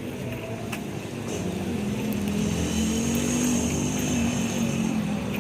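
A motor vehicle engine running close by, growing louder about two seconds in, with a few faint clicks early on.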